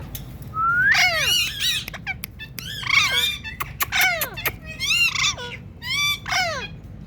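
Ringneck parakeet calling in about half a dozen short bursts of high, gliding squawks roughly a second apart, with a few sharp clicks between them.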